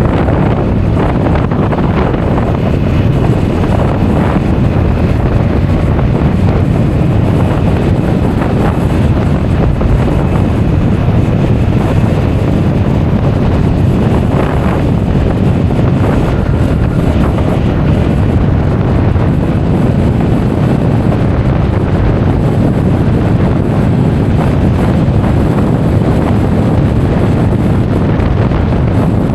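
Wind buffeting the microphone of an action camera on a moving Honda Forza 350 scooter: a loud, steady low rumble that runs without a break.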